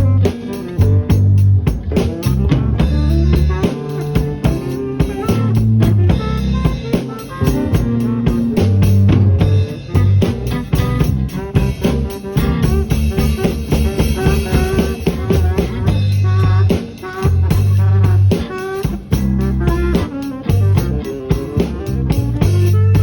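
Live blues band playing a slow blues in G without vocals: a lead guitar plays bent notes over a drum kit with kick and snare, and a bass line.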